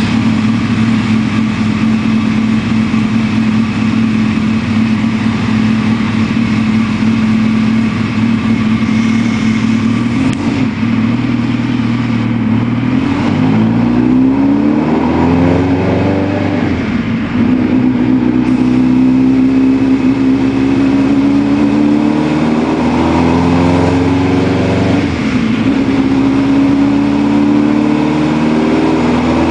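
Hartley 75-degree V8, built from two Suzuki Hayabusa top-ends on a common crankshaft, running under test on a dyno. It holds a steady note for about the first dozen seconds, then revs in repeated rising pulls with short drops in pitch between them.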